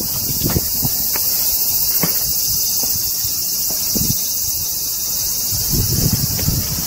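A steady, high-pitched chorus of insects, with a few light clicks or taps.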